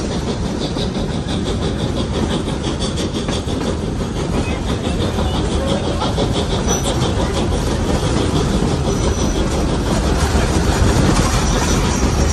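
Steam-hauled passenger train running along the track: a steady rumble of wheels on rails, with a quick regular clatter through the first few seconds.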